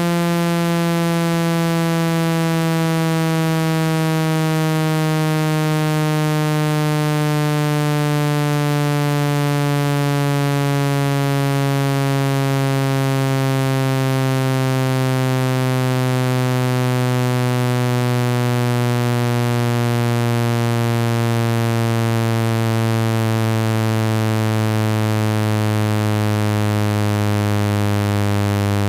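Synthesized low buzzing tone, rich in overtones, sliding slowly down in pitch throughout. It is a water-eject tone played at full volume to vibrate water and dust out of a phone's speaker.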